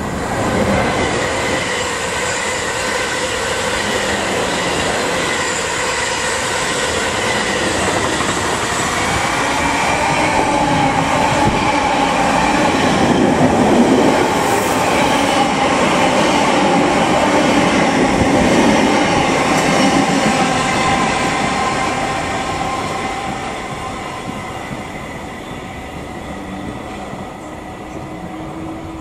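Electric multiple unit running past close to the platform: a loud rush of wheels on rail, loudest about halfway through, with a high whine over it, dying away over the last several seconds.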